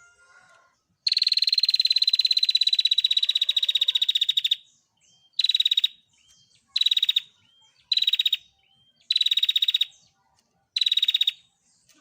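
Female prenjak (a prinia) giving its rapid rattling 'tir' trill: one long trill of about three and a half seconds, then five short bursts of about half a second each, evenly spaced.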